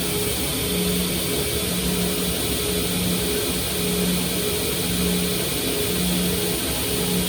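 Electric sharpening grinder running steadily with a hiss of abrasive on steel, a hum that swells and fades about once a second as the knife blade is pressed to it in passes.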